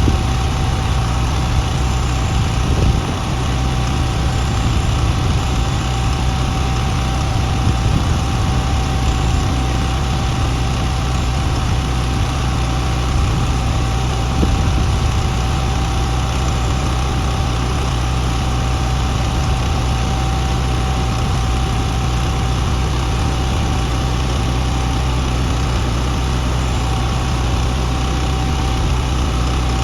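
Heavy-equipment engine idling steadily, with a thin, steady whine running over the low engine note.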